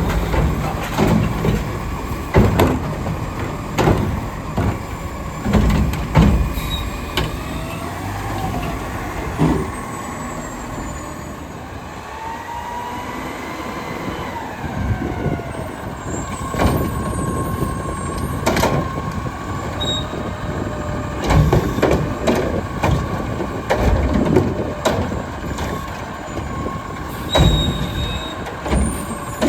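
Diesel Autocar garbage truck with a McNeilus front loader and Curotto Can arm working through a pickup: the engine runs under load, a hydraulic whine rises and falls, and repeated loud bangs and clunks come as carts are dumped. An air brake hisses among them.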